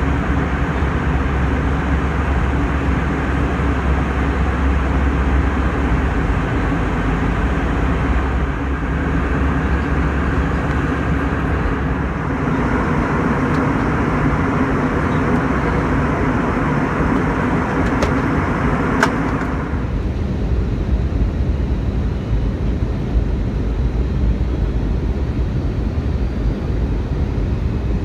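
Steady outdoor vehicle rumble. A louder, higher-pitched stretch builds from about halfway through and cuts off sharply about two-thirds of the way in, with two short clicks just before it ends.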